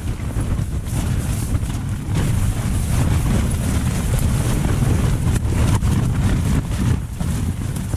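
Strong gusty wind buffeting a small tent, rumbling heavily on the microphone, with the tent fabric flapping and snapping in short sharp bursts.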